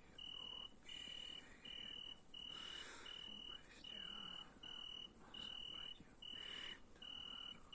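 Crickets chirping at night: a steady series of high chirps, a little over one a second, over a fainter and higher continuous insect trill.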